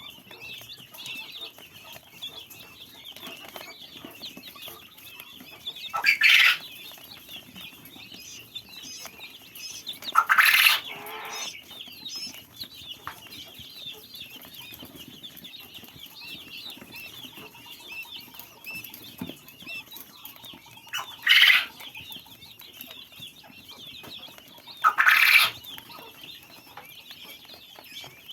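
A group of baby birds peeping continuously, many high chirps overlapping. Four short, much louder noisy bursts stand out: about 6 seconds in, about 10 seconds in, about 21 seconds in and about 25 seconds in.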